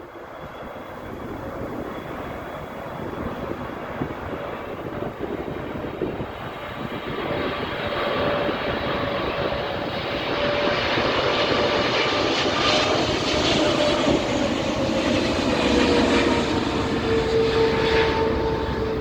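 Air Canada airliner's engines on approach to land, growing steadily louder as it nears, with a humming tone that drops in pitch about three-quarters of the way through as the aircraft passes.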